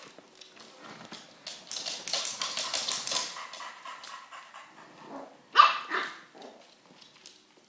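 A young puppy barking and yipping. The loudest is a single sharp bark a little over halfway through.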